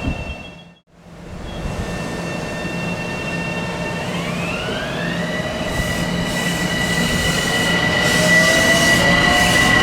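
Electric commuter train's traction motors whining as it moves along the track, the whine gliding up in pitch about four seconds in and then holding steady, with rumble and wheel noise building toward the end. The sound drops out briefly about a second in.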